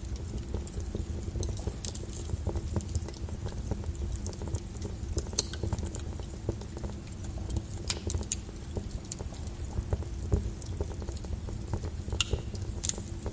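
Wood fire in a fireplace crackling, with a steady low rumble of the flames and irregular sharp pops and snaps of burning wood, a few louder pops scattered through.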